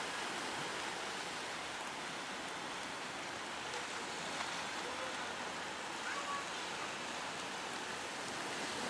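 Steady wash of breaking ocean surf, an even noise with no break.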